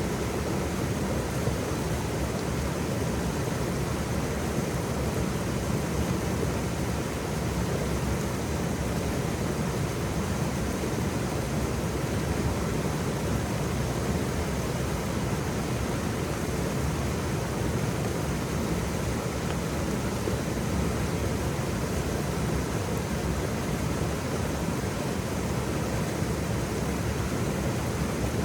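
Waterfall running in a steady, even rush with no breaks or separate splashes, its sound weighted toward the low end.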